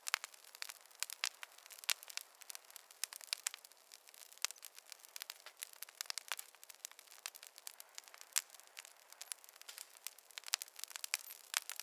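Campfire crackling: irregular sharp pops and snaps of burning wood over a faint hiss.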